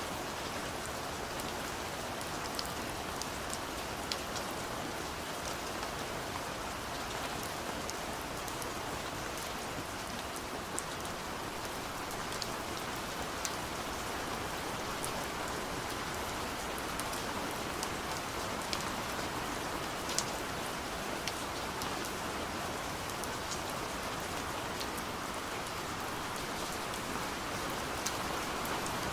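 Gentle steady rain pattering on a window, an even hiss with scattered sharp ticks of single drops hitting the glass.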